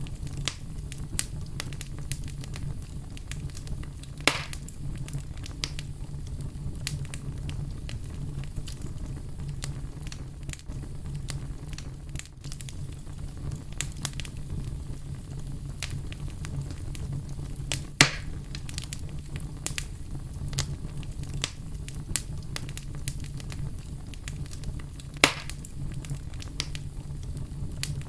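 Wood fire burning with a steady low rumble and frequent crackles, with three louder pops, about 4, 18 and 25 seconds in.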